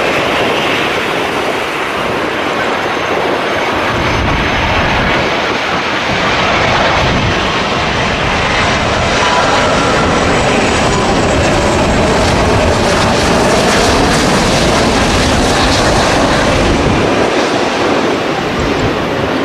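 Jet airliner engines running at high power, as on a takeoff run: a loud, steady rushing noise with no clear rhythm.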